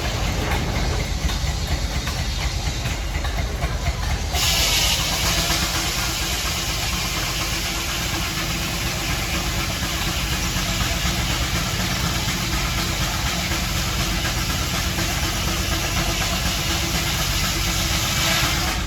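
An engine running steadily at idle. About four seconds in, a loud steady hiss starts abruptly and continues over the engine.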